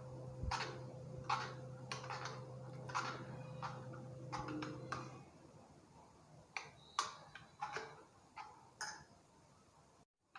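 A spoon scraping and clinking against a bowl in repeated strokes, stirring mango pulp into thick custard. A low steady hum underneath stops about halfway through.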